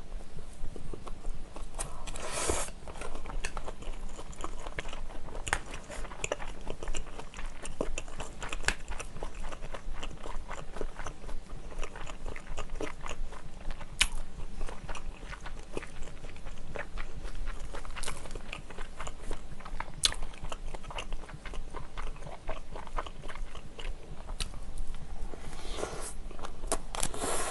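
Close-miked chewing and biting of kimchi fried rice, with small crunches and scattered sharp clicks. There is a brief louder rush about two seconds in and another near the end.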